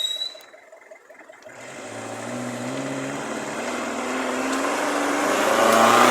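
An off-road 4x4's engine revving under load, coming in about a second and a half in and growing steadily louder, its pitch rising and falling with the throttle.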